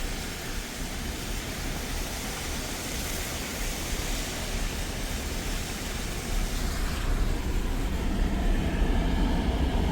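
Steady rumble and rush of a truck running on the road, heard from inside the cab, growing a little louder in the second half.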